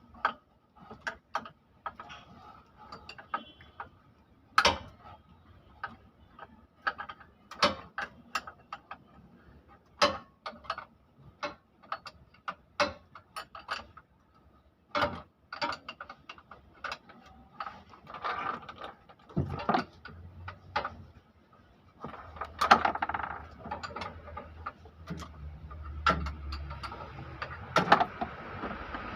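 Metal hand tools and engine parts clicking and clinking in irregular single strikes while an engine is being worked on. From about two-thirds of the way in, a steady low rumble and hiss runs beneath the clicks.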